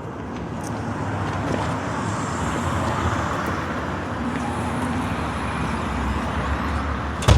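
Steady road-vehicle noise, a car or passing traffic, with a sharp knock near the end.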